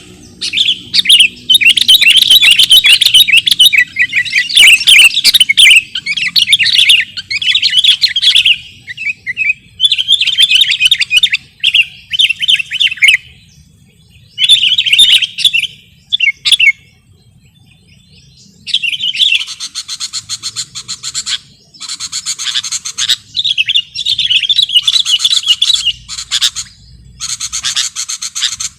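Sooty-headed bulbul (kutilang) song: bursts of rapid, high chirping and chattering with short breaks between phrases, and a pause of about two seconds a little past the middle.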